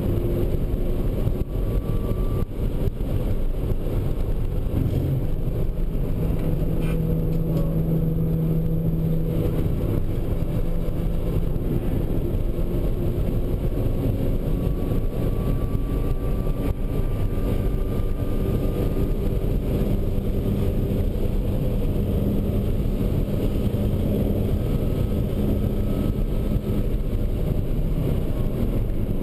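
Mitsubishi Lancer Evolution V's turbocharged 2.0-litre four-cylinder (4G63) heard from inside the cabin, running hard at track speed. Its note rises slowly as it pulls through the gears, over a constant rush of road and wind noise.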